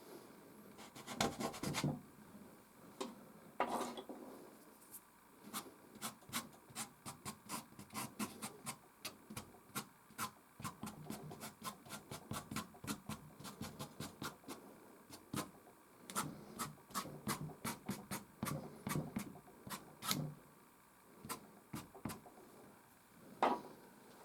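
Soft pastel sticks scratching and rubbing on canvas: a run of short, quick strokes, about two or three a second, with a few longer rubbing passages.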